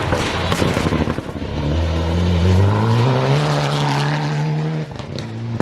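Rally car engine accelerating hard on a gravel stage, its note climbing steeply and holding at high revs before dropping off sharply near the end, with rough crackling at the start.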